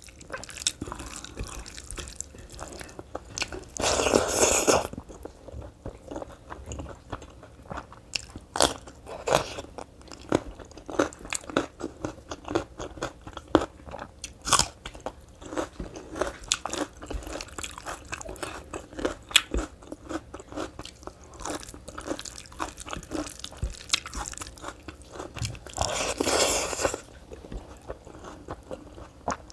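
A person chewing and crunching food close to the microphone, with many small irregular mouth and food clicks. There are two louder, longer sounds, one about four seconds in and one near the end.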